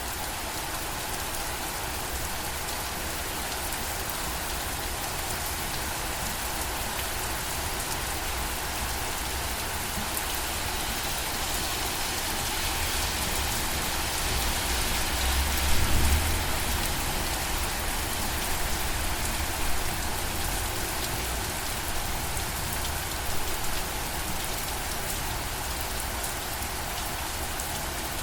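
Steady rain falling. It swells about halfway through with a brief deeper surge, and a few louder drops stand out later on.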